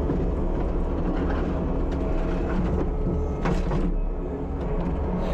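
Kubota SVL75-2 compact track loader's diesel engine running steadily, with a sharp clank about three and a half seconds in.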